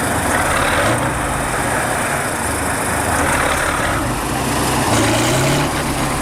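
Kirovets K-701 articulated tractor's diesel engine running hard as its wheels struggle for grip on an icy road, with a continuous drone whose pitch shifts a little now and then.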